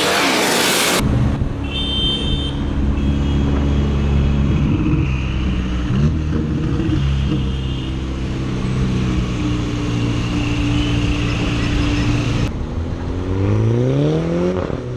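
A car engine running at low revs with a steady, deep note, then revving up in a rising sweep near the end. A loud rushing noise cuts off about a second in.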